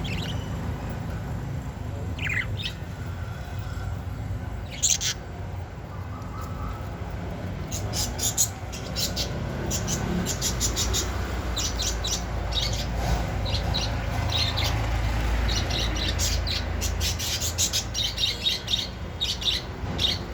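Budgerigars chirping in quick, short notes that come thick and fast from about eight seconds in, over a steady low rumble.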